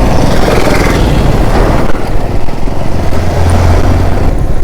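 Motorcycle running at road speed, heard from the rider's own camera, with wind rushing over the microphone. The low engine note grows stronger for a second or two past the middle.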